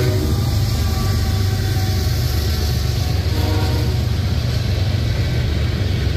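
CSX manifest freight train passing close by. A horn blast cuts off just at the start, then the last diesel locomotive and a string of freight cars rumble steadily past on the rails.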